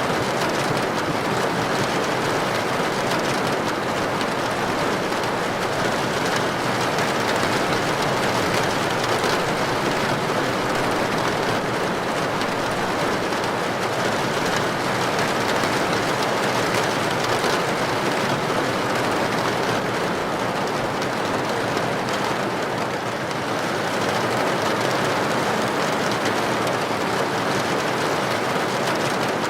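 Heavy rain drumming steadily on a tin roof, a dense, even patter that holds constant throughout.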